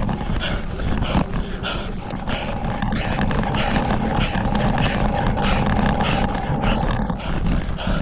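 A cyclist breathing hard in a steady rhythm, about one and a half breaths a second, from the effort of racing up a steep climb, over a low rumble of wind and road noise.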